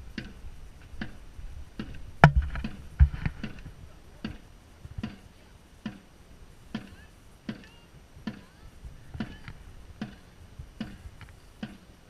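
Dragon boat drum beating a steady stroke rhythm, about one beat every 0.8 seconds, to keep the paddlers in time.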